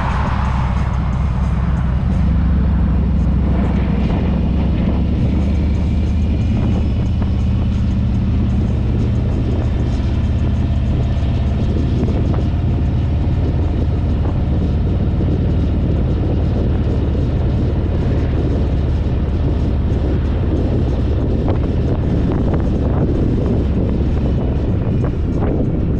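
Harley-Davidson motorcycle's V-twin engine running steadily while riding, with road and wind noise over it.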